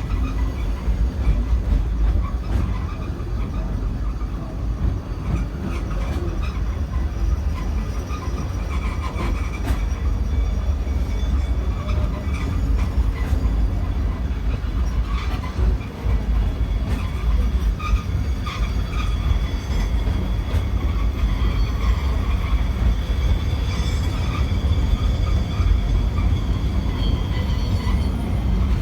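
Cable-hauled tramcar of the Great Orme Tramway running down its track: a steady low rumble of wheels on rail, with faint high squeals and occasional clicks.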